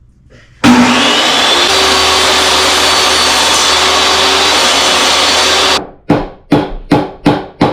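A power saw starts up about half a second in, runs loudly and steadily for about five seconds, then stops. Then come about seven quick hammer blows on wood.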